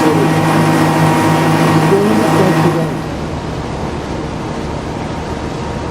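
Tour boat's engine running steadily with a low hum; about three seconds in the sound changes abruptly to a quieter, even rush of water and wind.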